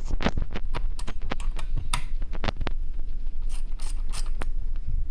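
Screwdriver turning the screws that hold the CPU cooler onto a laptop motherboard: a run of short, irregular clicks and ticks over a steady low hum.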